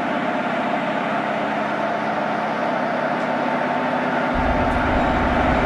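Steady running noise of a moving vehicle, with a constant hum through it. About four seconds in, a deep rumble joins and the sound grows slightly louder.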